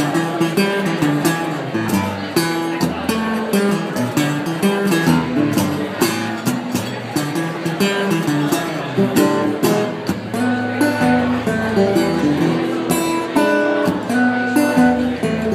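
Blues guitar played as an instrumental break between verses: a steady strummed rhythm over a low, stepping bass line.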